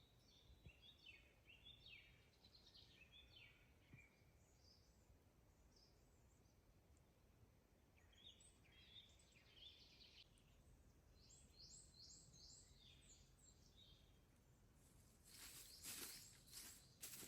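Faint woodland birdsong: bouts of short chirping phrases, with a run of higher, quicker notes past the middle. Near the end, a burst of dry rustling and crackling begins.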